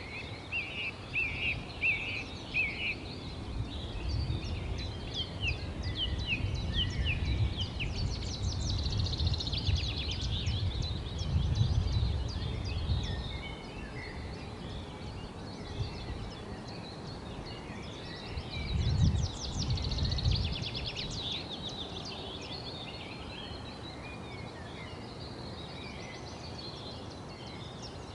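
Several songbirds chirping and singing outdoors, with quick high chirps and short trills overlapping throughout. A low rumble comes and goes beneath them, from a few seconds in until near the middle and again briefly about two-thirds of the way through, and is loudest there.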